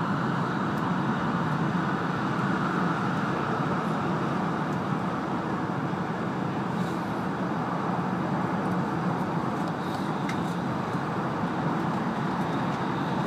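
E2 series Shinkansen running at steady speed, heard from inside the passenger cabin: an even, steady rumble and rush, with a few faint ticks about ten seconds in.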